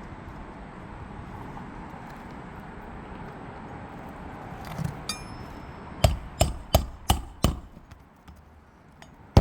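Hammer driving a roofing nail into an asphalt shingle: five quick blows about six seconds in, then one more near the end, over a steady outdoor background.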